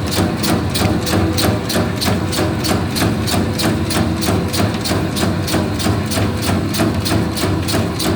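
Meatball-forming machine running: a steady motor hum under an even, rapid clicking of about four strikes a second.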